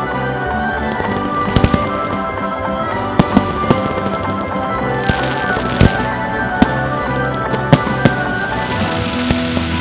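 Fireworks going off over steady music: a series of sharp single bangs, roughly one every second, with bursts of crackling shells in the middle and again near the end.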